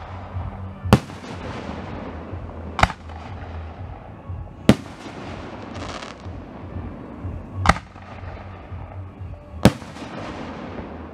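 Aerial firework shells bursting: five sharp bangs roughly two seconds apart, each followed by a rolling echo that dies away.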